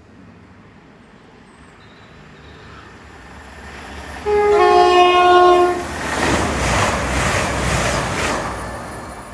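A train approaching and sounding a two-tone horn about four seconds in, a higher note then a longer lower one, then rushing past at speed with a rhythmic clatter of wheels on the rails.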